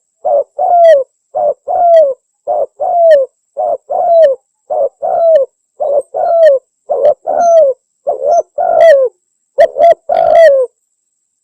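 Spotted dove cooing: a short note followed by a longer coo that falls in pitch, the pair repeated a little more than once a second, stopping shortly before the end.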